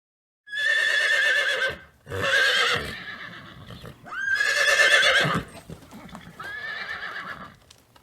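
A farm animal calling four times, each call about a second long with a wavering, quavering pitch; the last call is quieter.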